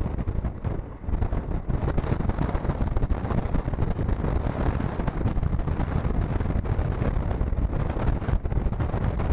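Rumble of an express passenger train running at speed, heard from on board, with wind buffeting the microphone.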